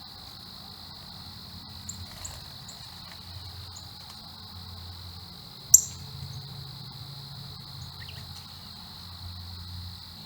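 Steady insect chorus, a constant cricket-like trill at one high pitch, with a few short high bird chirps about two seconds in. About six seconds in comes a single sharp, high click or chirp, the loudest sound.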